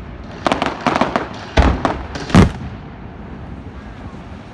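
Fireworks exploding: a rapid run of sharp bangs and cracks over the first two and a half seconds, a few with a deep thump, the loudest about two and a half seconds in, followed by a quieter lull.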